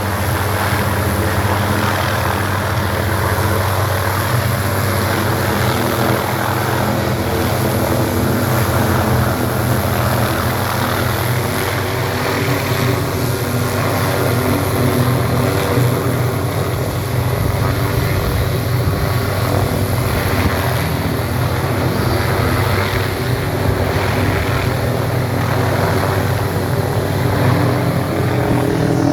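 Helicopter running steadily, its rotor and engine giving a constant low drone with an even hum of pitched tones.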